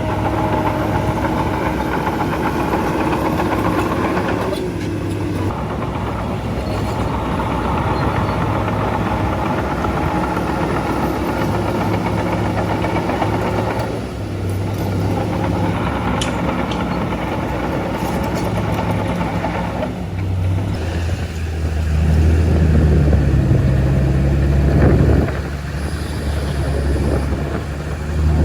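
A bulldozer's diesel engine running under changing load, growing louder and heavier for a few seconds near the end before easing off.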